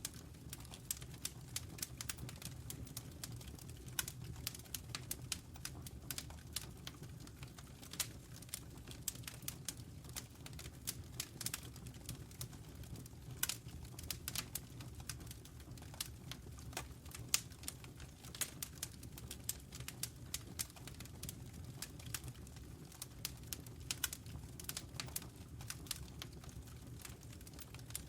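Wood fire in a fireplace crackling, with many irregular sharp snaps and pops over a steady low rumble.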